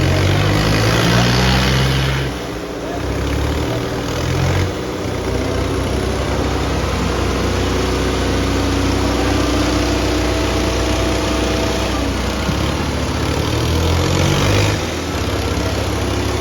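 Diesel engines of the Eicher 557 and Kubota 5501 tractors running hard in a tractor tug-of-war pull. The engine note shifts about 2 s in, again around 4.5 s, and again near the end.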